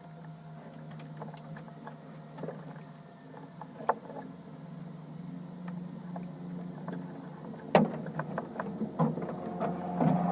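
Steady low hum of a Cessna 152's engine, with scattered knocks and clicks, one sharp knock standing out a little before the 8-second mark. The engine grows louder near the end.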